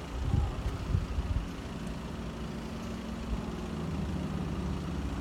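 Steady low rumble of a vehicle engine idling, with a few loud low thumps in the first second and a half, typical of wind buffeting the microphone.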